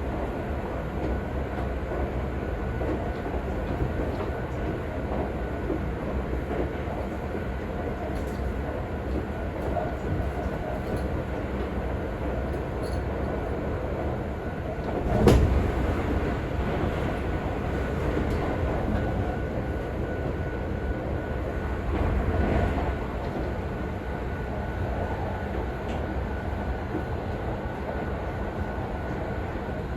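Interior running sound of a Seibu 40000-series electric train at speed: steady rumble of wheels on rail with a faint steady whine. About halfway through there is a sudden loud burst of noise, and a smaller swell follows a few seconds later.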